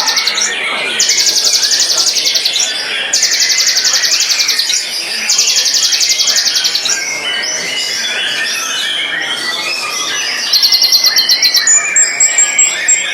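White-rumped shama (murai batu) singing: a string of rapid high trills, each lasting about a second and a half, then a run of varied whistled phrases and a quick stuttering series of repeated notes near the end.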